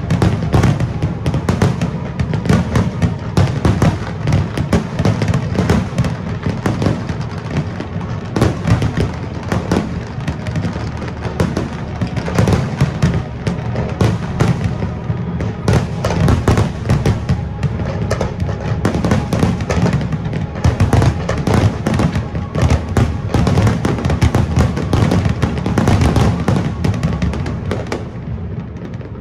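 Fireworks display: aerial shells bursting in a dense, continuous barrage of bangs and crackles, with music playing alongside. The barrage thins out just before the end.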